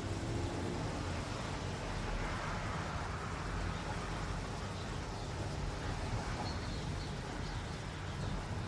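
Steady rain ambience over a low, even rumble, with a few faint bird chirps about two thirds of the way in.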